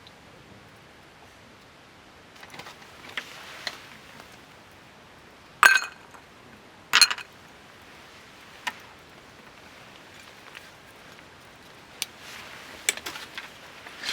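Tableware clinking: two sharp ringing clinks a little over a second apart, about six and seven seconds in, then a run of lighter clicks and taps near the end.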